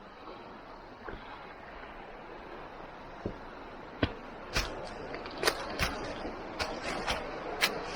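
Footsteps crunching on loose, stony ground, starting about halfway through as a run of sharp, irregular steps over a steady faint hiss.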